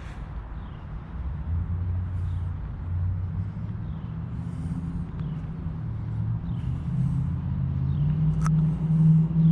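V8 of an LS-swapped 1996 GMC 1500 pickup running with a low rumble, growing steadily louder, its pitch creeping up near the end.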